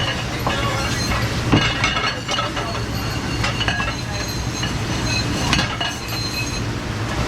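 Dishes, glassware and cutlery clinking and knocking as they are handled, with short ringing notes and a couple of sharper knocks, over a steady low hum.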